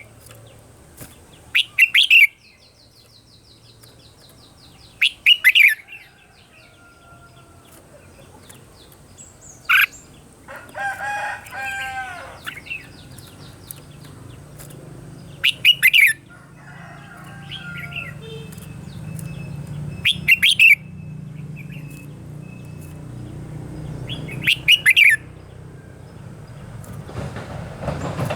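Red-whiskered bulbul singing short, loud phrases about every four to five seconds, six in all. Between them other birds call faintly, with a quick high trill near the start and a longer, lower drawn-out call about eleven seconds in.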